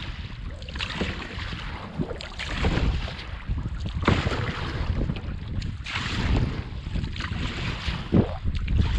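Wind buffeting the microphone in heavy, gusting rumbles, with water splashing and lapping around a canoe.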